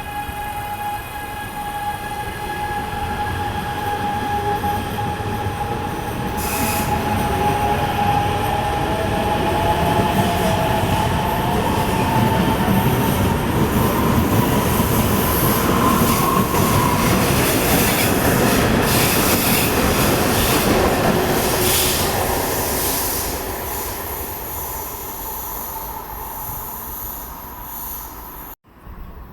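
A train passing at close range, its wheels squealing in high tones that slide slowly up in pitch over a heavy rumble. The sound builds to a peak in the middle, fades, and cuts off abruptly near the end.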